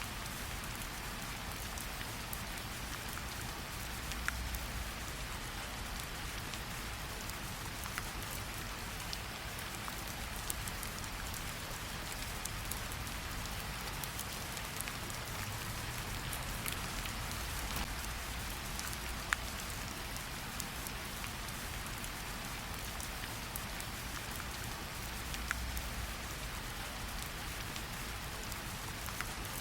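Steady rain falling, with a few single drops ticking a little louder now and then.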